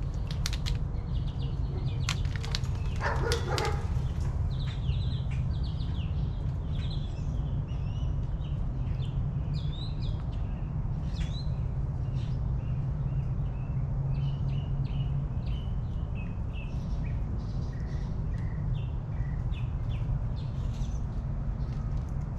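Small backyard birds chirping and calling in many short notes, with a louder, rougher call about three seconds in, over a steady low hum.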